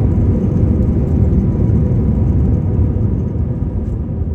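Steady low rumble of airliner cabin noise, heard from inside the cabin as the plane is on the ground after landing, easing off slightly toward the end.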